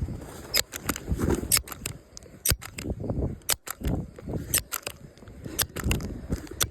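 Irregular sharp crackling clicks, a few each second, over soft low thuds: footsteps and movement crunching through snowy brush.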